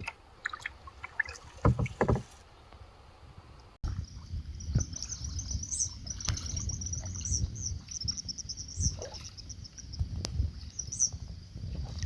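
Kayak paddle strokes dipping and splashing in calm lake water, with a few light knocks in the first seconds. From about four seconds in, a fast, high chirping runs continuously over the paddling.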